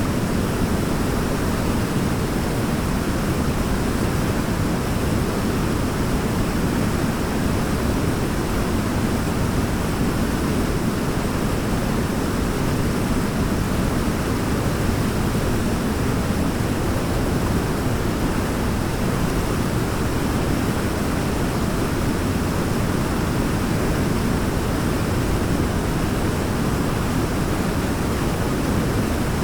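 Waterfall: a steady, deep rush of falling water with no breaks or changes.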